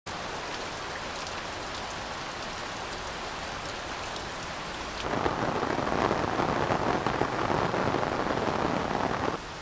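Heavy rain falling steadily. About five seconds in it becomes louder and denser, then drops back just before the end.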